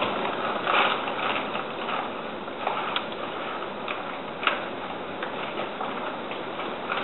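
Heavy thunderstorm rain pouring steadily, with scattered sharp ticks and taps of drops striking nearby surfaces.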